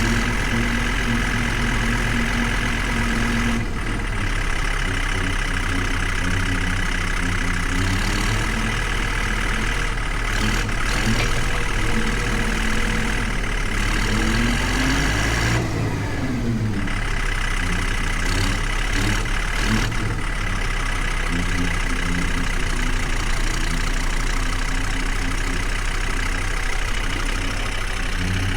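Tractor engine running steadily under way, its pitch shifting briefly about halfway through as engine speed changes.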